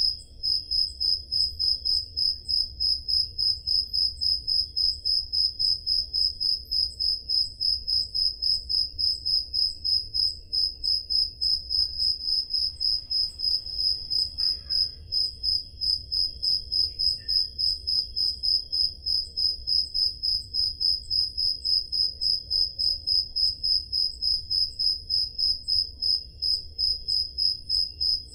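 Crickets chirping, one high chirp repeating in a steady, even rhythm, with a faint low hum beneath.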